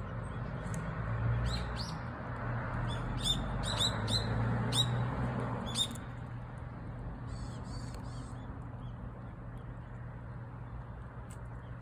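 Small birds chirping: a quick run of short, sharp chirps in the first half, a buzzy call a little later, then a couple of single chirps near the end, over a steady low background hum.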